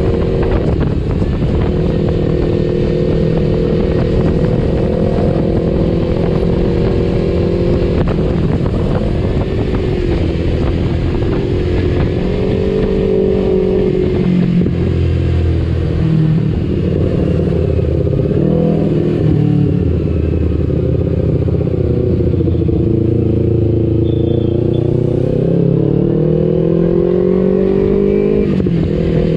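Kawasaki Ninja 250 FI's parallel-twin engine breathing through an aftermarket R9 H2 exhaust while the bike is ridden. The exhaust note rises and falls with throttle and gear changes: steady at first, dipping about a third of the way in, then climbing slowly in pitch before dropping near the end.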